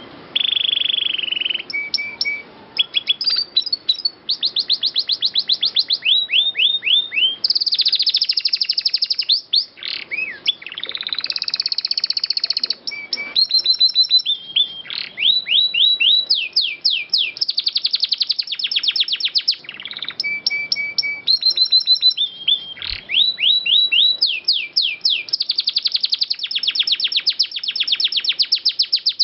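Domestic canary singing a long, unbroken song of rapid rolling trills: each phrase is a fast run of repeated notes or quick falling sweeps, switching to a new phrase every second or two.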